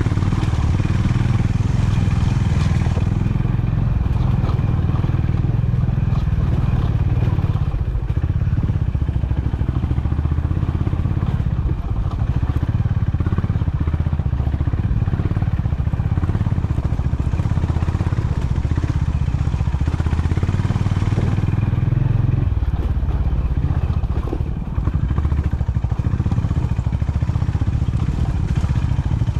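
Honda CB350 H'ness motorcycle's single-cylinder engine running steadily under way, with a deep, even exhaust note and a brief dip in loudness near the end.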